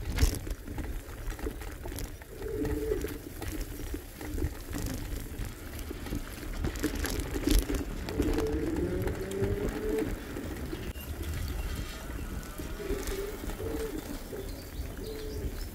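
Low cooing bird calls, in short repeated phrases every few seconds, over a steady low rumble, with a thump about seven seconds in.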